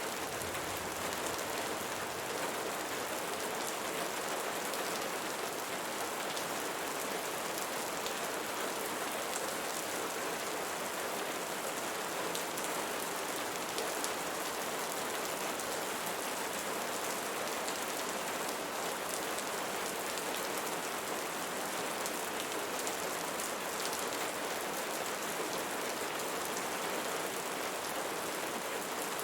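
Steady rainfall pattering on surfaces, an even hiss with fine drop ticks throughout.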